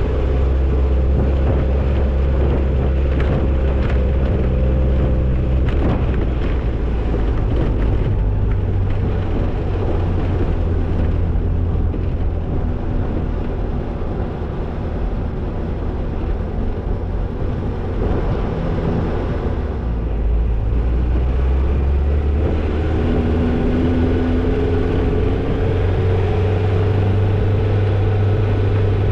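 Toyota Tercel 4WD wagon's engine running as it drives a trail, its pitch shifting several times as the revs change, with a few knocks and rattles in the first several seconds.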